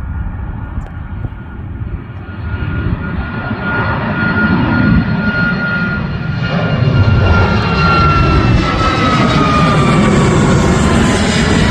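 Jet aircraft approaching and passing close by. A rumble builds steadily, and a high engine whine drops in pitch in the second half as the plane goes past.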